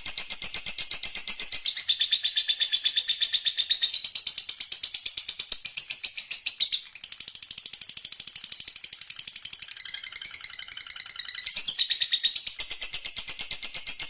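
Songbird song from a masteran recording: a fast, even trill of high notes that jumps to a new pitch every couple of seconds, with a more warbling stretch about ten seconds in.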